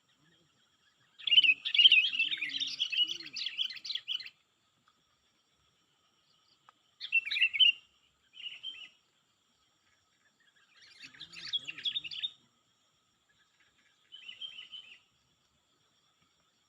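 A bird chirping in rapid twittering bursts, five in all, the first and longest lasting about three seconds, the rest shorter.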